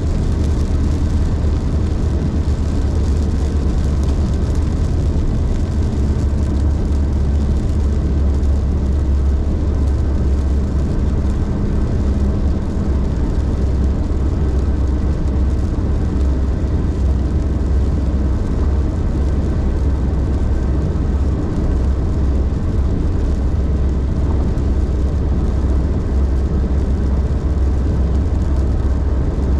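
Car being driven at a steady pace: a continuous low rumble of engine and road noise with an even hiss of tyres over it, unchanging throughout.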